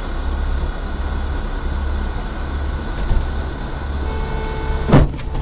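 Steady low road and engine rumble of a moving vehicle heard from inside the cab. About four seconds in, a steady single-pitch tone like a horn starts, and about a second later there is one sharp, loud knock.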